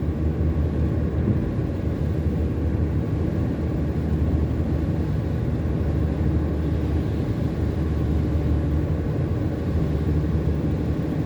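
Car driving at highway speed: a steady low rumble of engine and tyre road noise.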